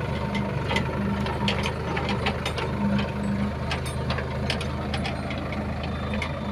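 Tractor engine running steadily under way, with a forklift attachment and loose metal parts rattling and clicking irregularly as it travels.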